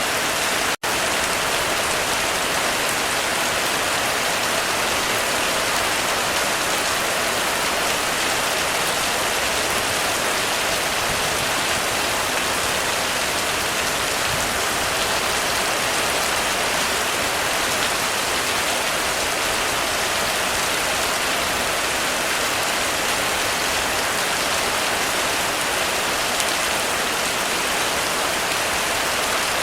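Heavy rain falling steadily on a roof, a dense even hiss of drops. It cuts out for an instant just under a second in, then carries on unchanged.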